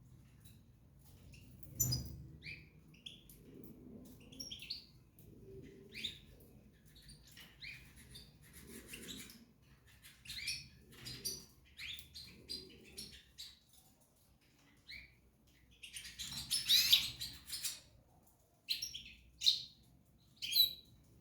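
Small cage birds chirping, short scattered calls throughout with a louder, denser flurry of chirps about three quarters of the way through.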